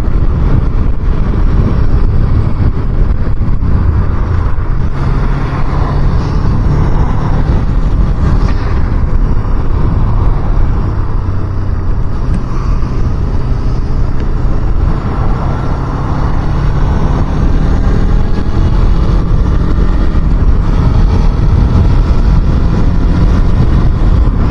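Motorcycle running on the move, its engine drone under steady wind rush on the rider's microphone, easing slightly for a moment midway before picking back up.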